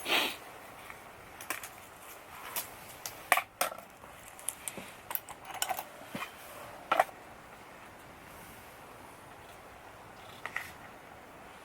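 A run of sharp, irregular clicks and knocks, like hard objects being handled, over the first seven seconds, the loudest near the start and about seven seconds in. After that there is only a faint steady hiss, with one light click near the end.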